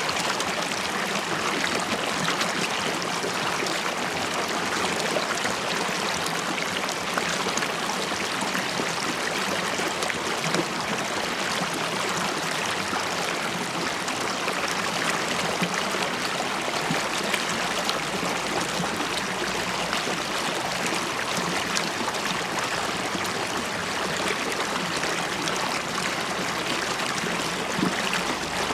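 River water flowing and bubbling over rocks, a steady rushing with fine gurgles and splashes.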